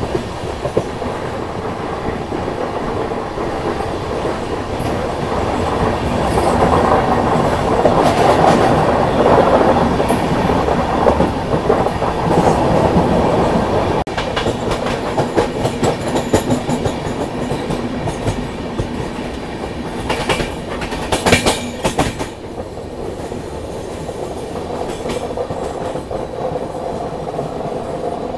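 Running noise of a moving Indian Railways Humsafar express train's coaches, wheels rolling steadily over the rails with a clickety-clack. It grows louder for several seconds in the middle, and a short run of sharp clicks comes about twenty seconds in.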